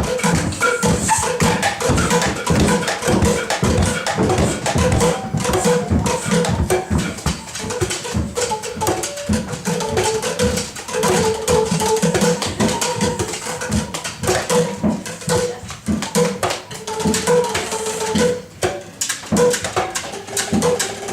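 A group improvising on percussion: a dense, irregular clatter of taps and knocks, with short pitched notes sounding in and out among them.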